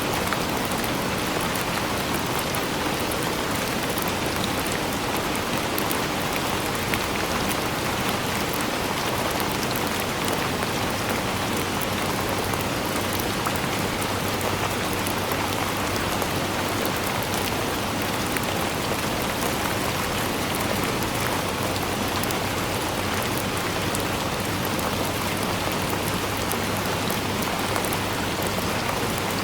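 Steady rain falling on a surface, a dense even hiss with fine patter of drops.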